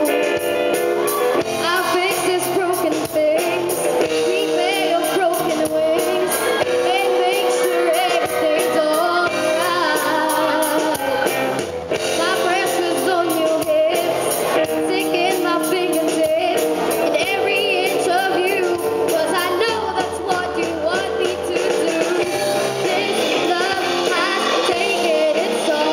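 Amateur rock band playing live with a singer: vocals over guitars, bass, drums and piano, with a steady drum beat.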